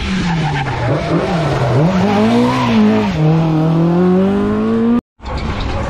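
Rally car engine revving hard through a corner. The revs fall and rise several times, then climb steadily as the car accelerates away. The sound cuts off suddenly about five seconds in, and a different car's engine follows.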